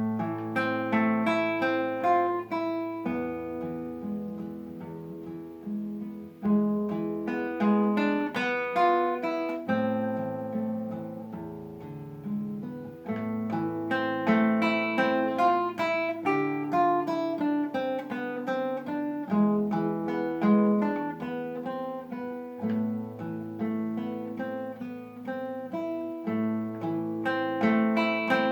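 Solo acoustic guitar playing an étude: a steady flow of plucked arpeggiated notes over low bass notes that change every few seconds.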